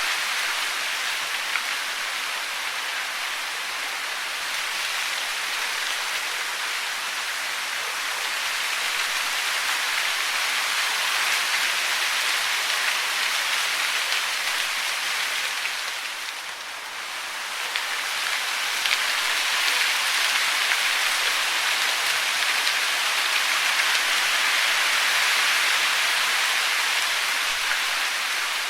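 Steady hiss of falling water, like rain or a waterfall, dipping briefly in loudness about two-thirds of the way through before returning.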